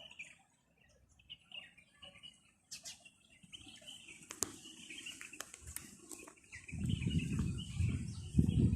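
Small birds chirping in the background, with a few faint clicks. About two-thirds of the way through, a loud, rough low rumble comes in and drowns them.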